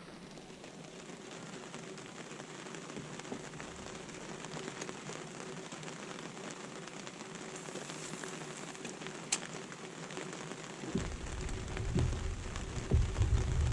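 Steady rain falling, an even hiss with a sharp click about nine seconds in. About eleven seconds in a low rumble comes in and grows louder toward the end.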